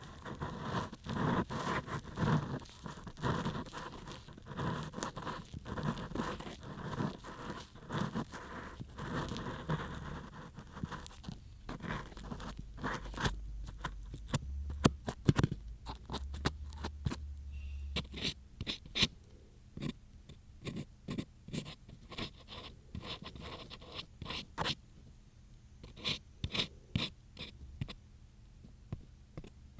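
An ear pick scraping and scratching close inside a microphone's ear. Quick strokes come densely for about the first ten seconds, then thin out to scattered scratches and small taps.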